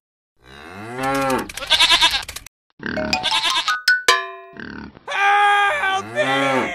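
A series of short wordless vocal sounds, grunt- or animal-like, each rising and falling in pitch, with a brief steady electronic tone about four seconds in.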